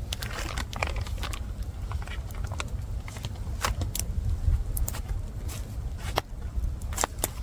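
Campfire crackling, with scattered sharp pops, over a steady low rumble.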